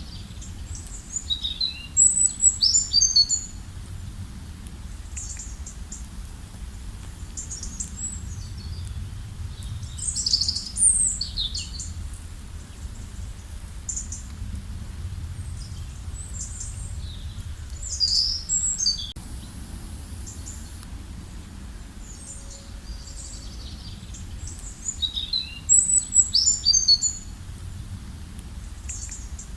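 Songbirds singing: loud phrases of quick high chirps and falling trills about every eight seconds, with fainter chirps between, over a steady low rumble.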